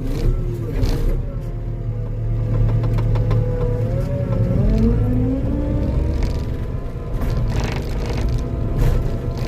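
Diesel engine of a compact construction machine running under load, its pitch shifting and gliding as it works, with a few sharp knocks and scrapes.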